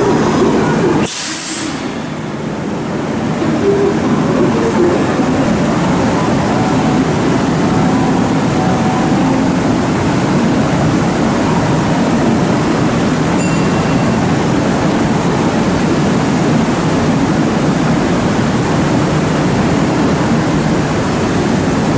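Steady rushing noise beside a stopped electric train at a covered station platform: the Kintetsu 2013 series train standing with its equipment running, mixed with station ambience. A short sharp click about a second in, after which the sound is briefly quieter.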